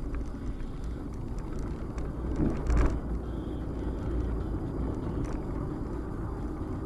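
Car driving, heard from a dashboard camera: a steady low rumble of engine and road noise, with a brief louder knock or thud about three seconds in.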